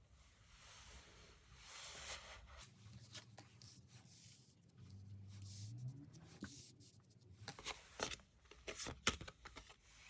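Tarot cards being handled: faint paper-like rustling and shuffling with irregular sharp clicks, which come thicker and louder near the end.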